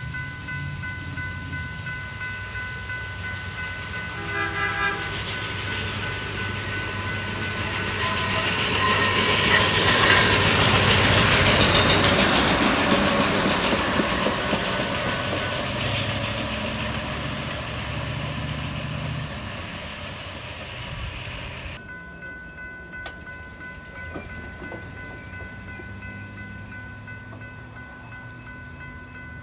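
Railroad maintenance-of-way equipment passing on the track, getting louder to a peak about eleven seconds in and then fading away. A short horn toot sounds about four seconds in.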